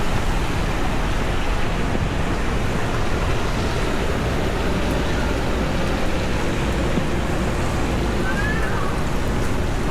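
Heavy rain falling on a city street, a steady even hiss, with a few faint wavering high tones near the end.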